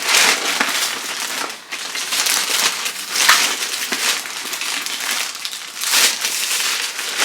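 Packaging crinkling and rustling as an item is unwrapped by hand, in uneven swells, with louder bursts about half a second, three and six seconds in.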